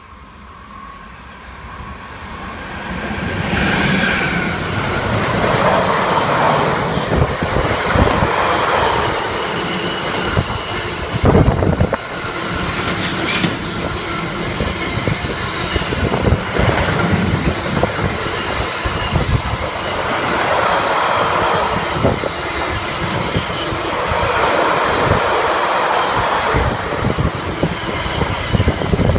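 A train approaching and then running past close by, its wheels clattering over the rail joints. The sound builds over the first few seconds and then stays loud as the long train keeps passing.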